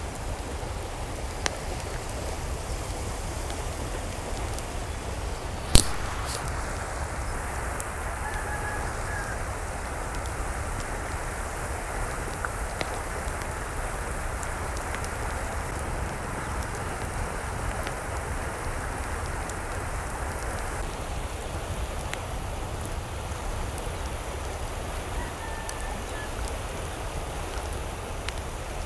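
Steady rain, with one sharp knock about six seconds in and faint, distant chicken calls twice, once near the start and once near the end.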